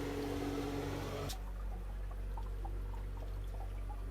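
Water pouring, then faint small drips over a low steady hum. The sound changes abruptly about a second in.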